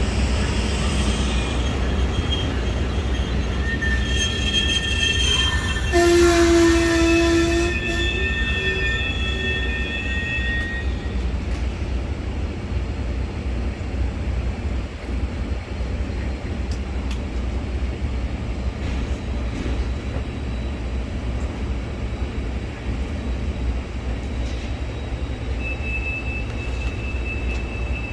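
Amtrak passenger train led by a GE P42DC diesel locomotive, running with a steady low rumble. About six seconds in there is a brief loud horn note. High-pitched wheel and brake squeals whine for several seconds around it, and again faintly near the end.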